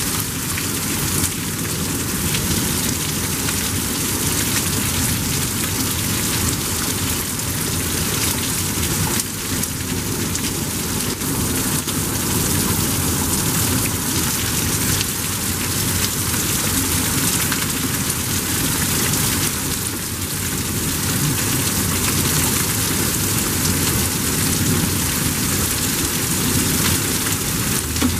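Torrential rain from a severe thunderstorm pouring steadily onto concrete and pavement, a dense, unbroken hiss.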